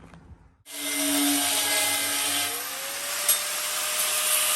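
A power tool running steadily, starting abruptly about half a second in, with a sharp click midway.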